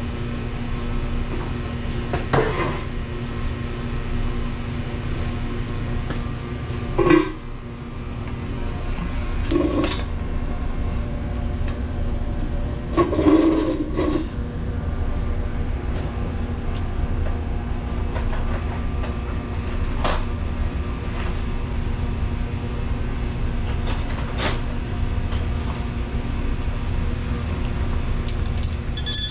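Steady machine hum with a low drone, broken every few seconds by metallic clanks and knocks, and a short ringing metal clink at the end.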